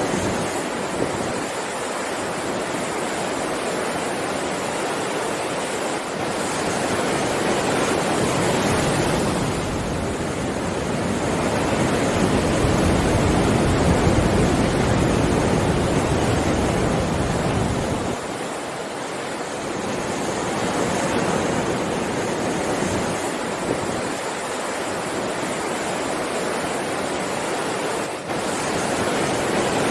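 Heavy ocean waves breaking and washing on the shore as a continuous rushing surf that swells and ebbs, with a big surge building through the middle of the stretch.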